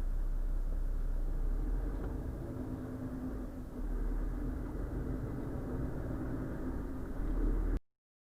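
Steady low rumble of the Renault Trucks T520's diesel engine and road noise, heard from inside the cab. It cuts off abruptly to silence near the end.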